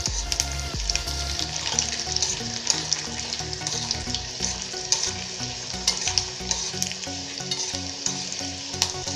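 Garlic cloves sizzling in hot oil with mustard and cumin seeds in a stainless-steel pan, a steady sizzle with many small sharp crackles, as a spoon stirs them round the pan. This is the tempering stage, the garlic being fried until it turns red.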